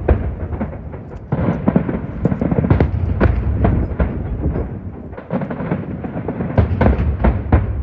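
Aerial fireworks shells bursting in rapid volleys: many overlapping cracks and booms over a low rumble, with a short lull about four seconds in before the bursts pick up again.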